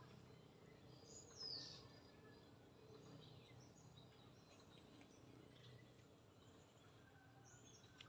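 Faint wild birds calling in the trees: one clear high call falling in pitch about a second and a half in, scattered faint short chirps, and another brief high call near the end, over quiet outdoor background.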